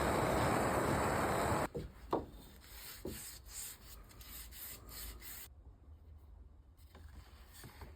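A wooden axe handle being sanded by hand: a steady abrasive rub on wood that stops abruptly a little under two seconds in. It is followed by a couple of light knocks and quiet handling.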